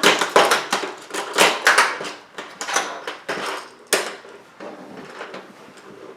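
Magnetic Polydron plastic building pieces clattering and clicking together as they are handled and snapped into place. Busy clacking for the first few seconds, a sharp click about four seconds in, then fainter clicks.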